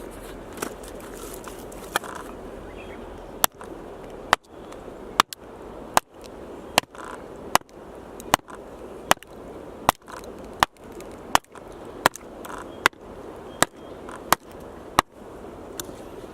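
Axe chopping firewood: about sixteen sharp strikes into wood in a steady rhythm, a little under a second apart, starting a few seconds in and stopping shortly before the end.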